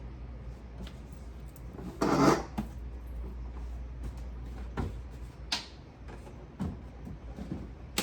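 Knocks and clatters from a refrigerator's drawers, shelves and contents being handled: a louder scraping clatter about two seconds in, then a few short, sharp clicks and knocks.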